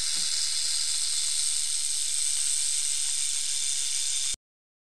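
Rattlesnake sound: a steady, high hissing buzz that cuts off abruptly about four seconds in.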